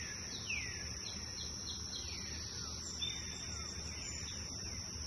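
Birds chirping in a morning chorus: quick falling whistles repeat about twice a second over a steady high-pitched hum.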